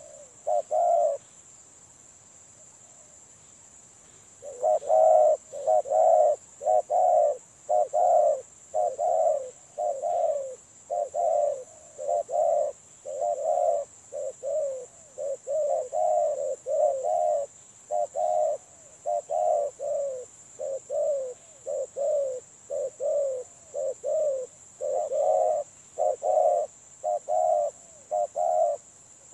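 Spotted dove cooing: a long, quick run of short coo notes, about two a second, starting after a pause of about three seconds.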